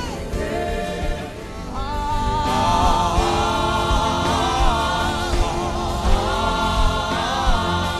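Wordless gospel humming: a voice carrying a wavering, gliding melody over sustained instrumental chords and a low beat. The voice comes in strongly about two seconds in.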